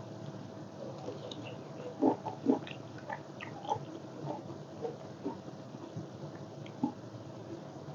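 A person chewing and biting into food close to the microphone: irregular wet crunches and smacks, with two louder crunches about two seconds in.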